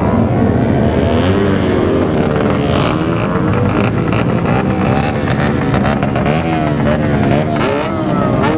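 Several motorcycle engines running at once, their notes rising and falling and overlapping as they are revved.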